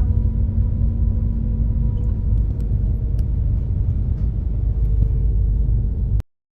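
Steady low rumble of a Super Jet high-speed ferry's engines, heard inside the passenger cabin as it comes into port, with a faint hum that fades out about two seconds in. The sound cuts off abruptly near the end.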